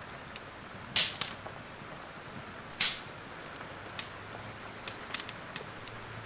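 Steady rain hiss with a wood fire crackling over it: two loud pops about a second in and near three seconds, then a scatter of smaller snaps.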